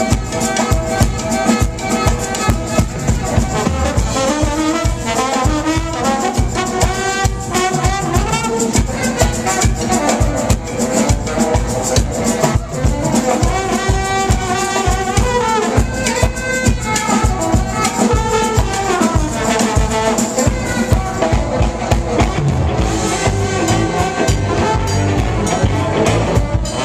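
Band music with horns, trumpet and trombone lines over a steady drum beat, in a jazzy style.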